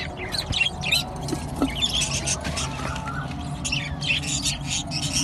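A flock of budgerigars chattering, with many short overlapping chirps and squawks throughout.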